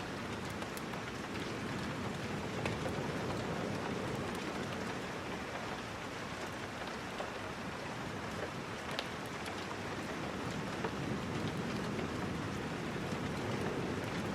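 Steady rain, an even continuous hiss, with a few faint clicks scattered through it.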